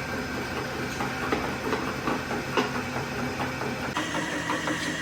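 Workshop machinery running with a steady low hum, with a few sharp metallic clicks or knocks.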